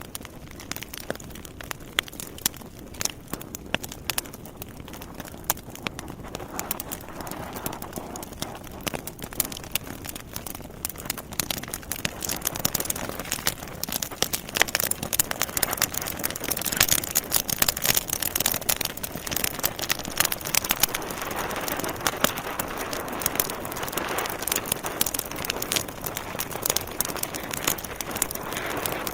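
Logs burning in a fireplace, crackling with many sharp, irregular pops over a soft hiss. It fades in at the start and grows louder and busier over the first dozen seconds or so.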